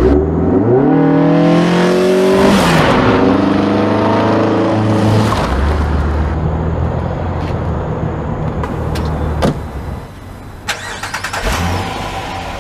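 A car engine revving: it climbs steeply to high revs, drops back, holds high again, then falls to a low, steady idle. A few sharp clicks come near the end.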